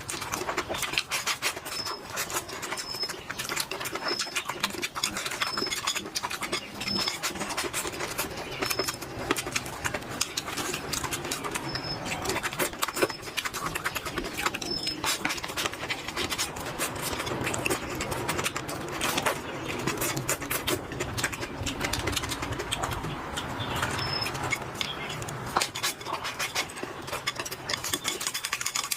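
A person chewing and eating close to the microphone: a dense, continuous run of small clicks and smacks.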